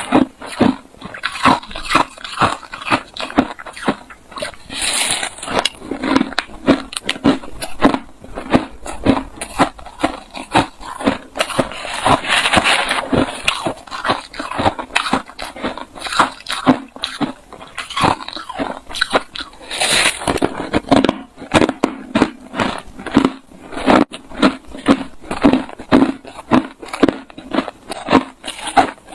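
A person chewing hard, refrozen crushed ice close to the microphone: a steady run of loud crunches, about two a second.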